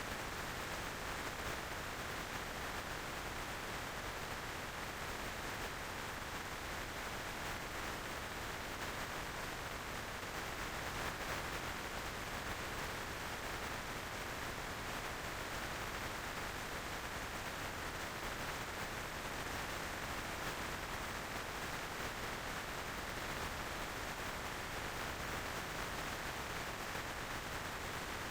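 Steady wind and road noise from riding a motorcycle at speed, an even rushing hiss with no engine note standing out.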